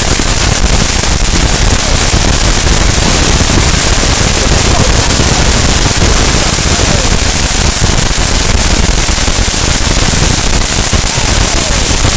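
Firework fountain burning with a loud, steady, dense crackling hiss that runs without a break.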